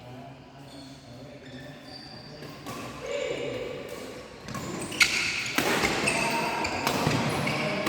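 Badminton rackets striking a shuttlecock in a rally, sharp hits echoing in a large hall. Players' voices run under the hits and grow louder from about five seconds in.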